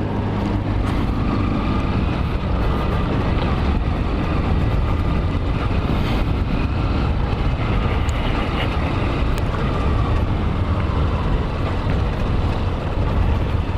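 Honda CG 160 Titan's single-cylinder four-stroke engine running steadily through its stock exhaust while being ridden, with a continuous rushing noise over it.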